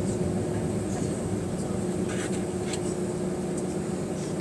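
Cabin noise near the back of an Airbus A320 with its CFM56-5A engines running: a steady rumble with a constant hum.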